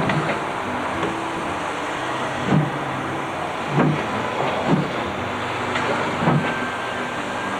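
A train running with a steady rumble, broken by sharp knocks at uneven intervals, about six in all.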